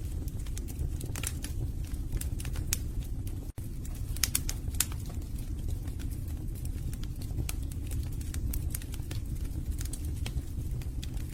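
Wood fire burning in a fireplace: a steady low rumble of flames with irregular sharp crackles and pops from the logs. The sound drops out for an instant about three and a half seconds in.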